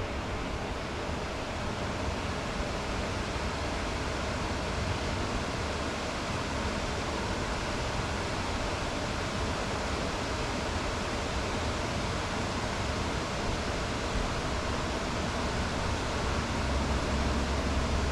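Steady, even rushing of flowing river water, with a little more low rumble near the end.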